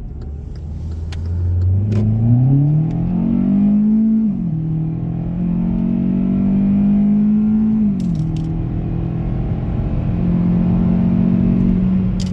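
2018 Hyundai Elantra 2.0-litre four-cylinder engine and intake pulling hard under acceleration, the pitch climbing steeply and then dropping sharply at a gear change about four seconds in, climbing again and dropping at a second gear change about eight seconds in, then holding steady.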